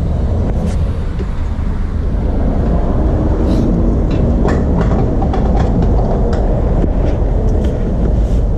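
Wind and road rumble on a camera carried on a moving bicycle, a loud steady low noise, with scattered sharp clicks and rattles from about halfway through.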